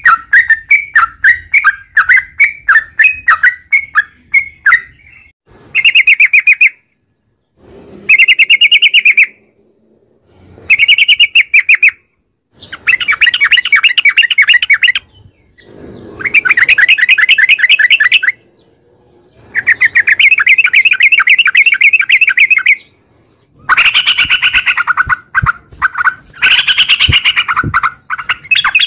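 Yellow-vented bulbul (trucukan) singing loudly: about five seconds of rapid, evenly repeated chattering notes, then a string of fast bubbling trills, each a second or so up to three seconds long, with short pauses between them.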